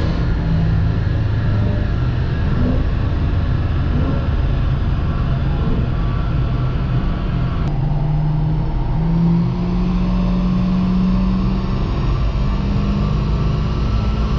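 Alpina B5's supercharged V8 running on a chassis dynamometer under steady load, its note jumping higher about halfway through and then climbing slowly, over the rumble of the dyno rollers.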